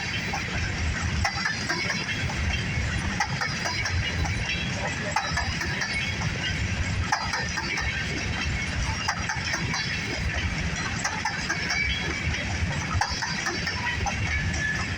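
A freight grain train rolling past: a steady low rumble of wheels on rail with many small clicks and squeaks over it.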